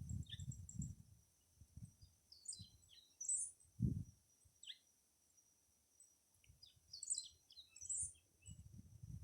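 Wild birds chirping and calling in short, high, quick phrases that come in clusters every second or two. Low rumbles come and go underneath, the loudest about four seconds in, and a faint steady high tone runs through.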